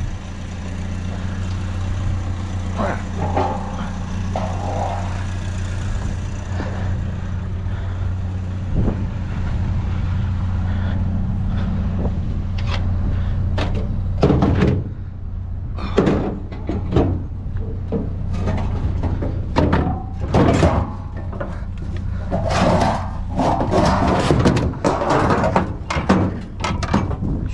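Truck engine idling steadily, with a run of sharp knocks and clatter from about halfway through.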